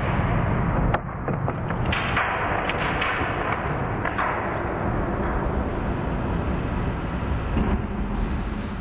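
Power hammer press running with a dense, steady mechanical noise while crushing a coconut, with several sharp cracks and knocks in the first half.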